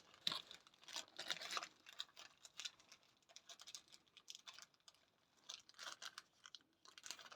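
Faint, scattered light clicks and rustling of hardware being handled: an AIO cooler radiator being set on top of a PC case to try its position.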